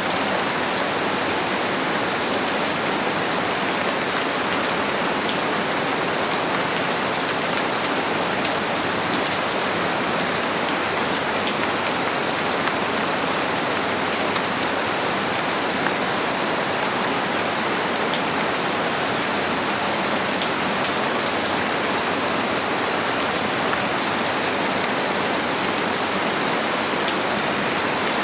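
Steady rain falling: a dense, even hiss dotted with many separate drop ticks, with no change in strength.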